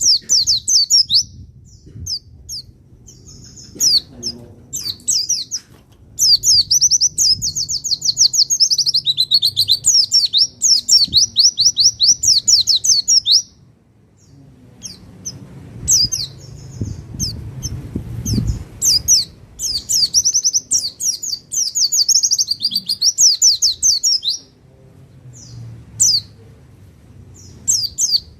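Pleci (white-eye) singing: long, very rapid, high-pitched chattering trills in bouts of several seconds with short breaks between, the song used as a masteran recording to train other songbirds or stir them to sing.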